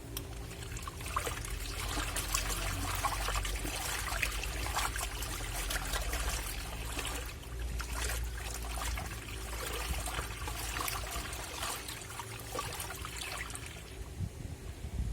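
Water pouring and splashing into a Black&Decker washing machine's tub, a steady splashing trickle that swells about a second in and eases off near the end.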